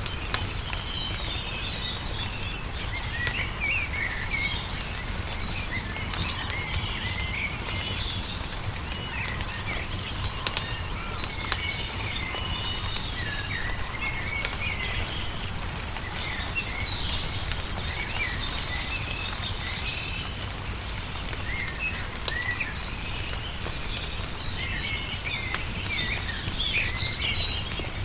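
Small songbirds chirping and twittering throughout, over the sharp pops and crackle of a wood fire and a steady low rumble.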